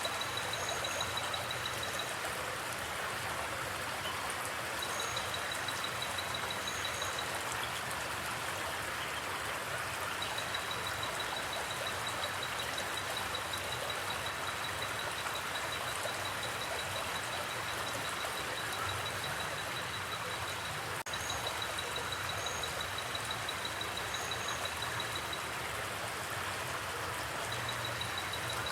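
Steady rushing and gurgling of a flowing forest stream. Over it, a fast, high-pitched pulsing call starts and stops in runs of a few seconds, with a few brief high chirps.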